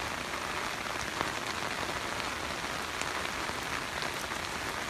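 Steady rain falling, a constant even hiss with scattered faint drop ticks.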